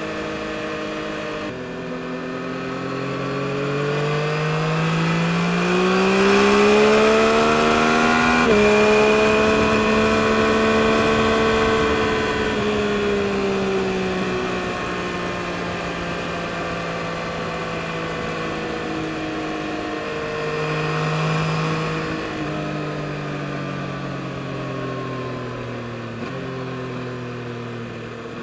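2022 Yamaha MT-09 SP's inline three-cylinder engine under way. The revs climb through a gear for several seconds and drop sharply at a gear change about eight seconds in, then hold and ease off to a steady cruise. Near the end there are a couple of shorter pulls and shifts.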